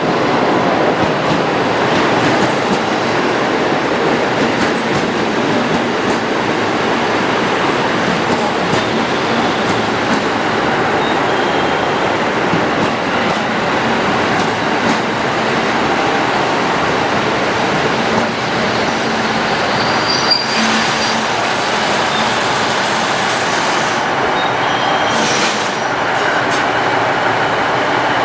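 A train running on the rails close by: a loud, steady rolling rumble of wheels on track. A high hiss joins in for a few seconds about twenty seconds in.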